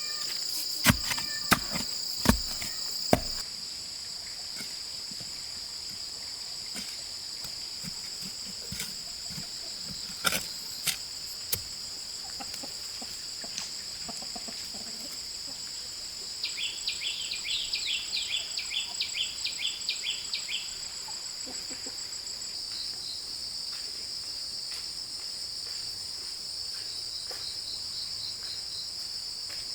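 Steady high insect drone, like crickets or cicadas, throughout. Four loud sharp knocks come in the first three seconds and three more about ten seconds in. A run of quick, high, rapidly repeated chirps lasts about four seconds past the middle.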